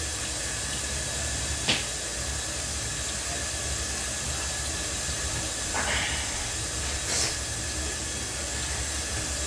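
A steady hiss with a low hum beneath it. Three short, light knocks sound about 2, 6 and 7 seconds in.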